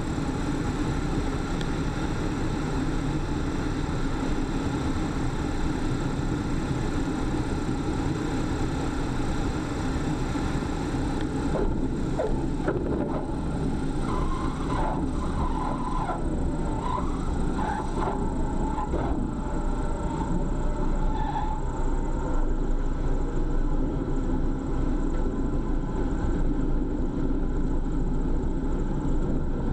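Steady engine drone with wind noise, holding level throughout, with a few brief knocks and wavering sounds from about twelve to twenty seconds in.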